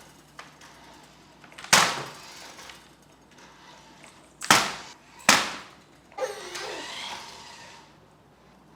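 Sharp knocks of a hard toy being banged: one about two seconds in, two close together past the middle, then a short clatter.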